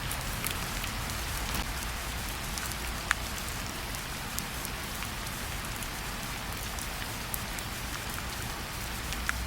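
Steady rain with individual drops ticking sharply on a hard surface, one drop clearly louder about three seconds in.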